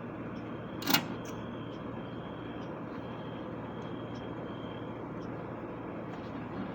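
Steady outdoor background noise with one sharp click about a second in.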